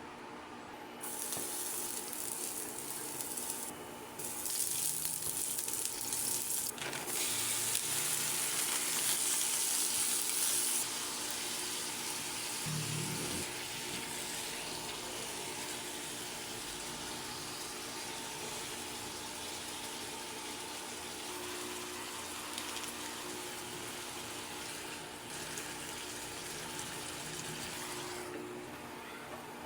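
Water running from a tap into a kitchen sink. It starts about a second in and runs hardest for several seconds, then settles to a steadier, lighter flow that stops near the end.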